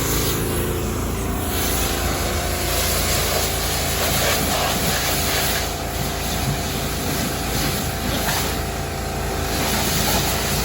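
Steady vehicle and car-wash noise: a constant low hum with a continuous hiss over it, unchanging and with no distinct events.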